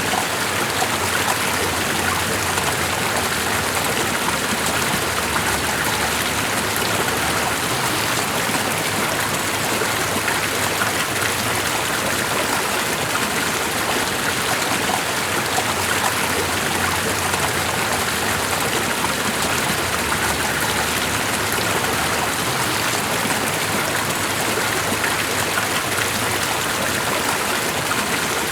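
Steady rushing water of a stream, an even unbroken wash of sound with fine splashing detail.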